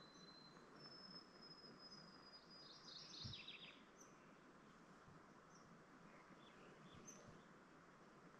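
Faint forest ambience with songbirds: a long, thin, high whistled note held for about three seconds from about a second in, with short high chirps scattered through.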